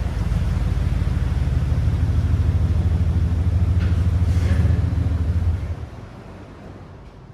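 Ford F-150 pickup truck's engine running with a loud, low rumble, which stops sharply about five and a half seconds in.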